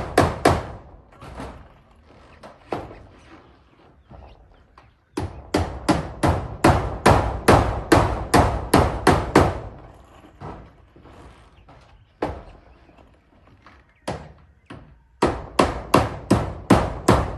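Hammer driving nails into corrugated zinc roofing sheets, in quick runs of sharp strikes about three a second: a few at the start, a long run of about a dozen from about five seconds in, and another run near the end, with odd single knocks between.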